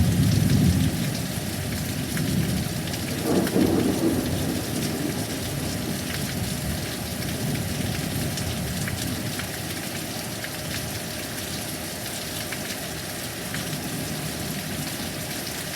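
Heavy thunderstorm: steady rain with many fine drop ticks, and a low rumble of thunder at the start that dies away over the first couple of seconds. A smaller swell of rumble follows about three seconds in.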